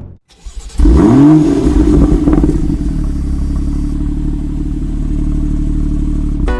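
BMW M car engine revving hard about a second in, its pitch sweeping up and then back down, then running on at a steady pitch under load.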